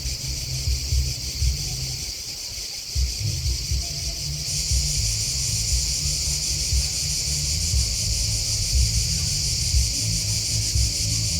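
A steady, high chorus of chirping insects (crickets and grasshoppers), growing louder about four and a half seconds in. An uneven low rumble runs underneath.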